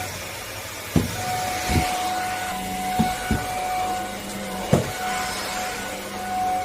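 Vexilar V9PRO cordless stick vacuum running with a steady motor whine, broken by about five dull thumps at uneven intervals.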